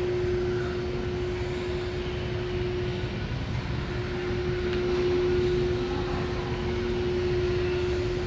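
Semi truck's diesel engine idling: a steady low rumble with a constant hum held over it throughout.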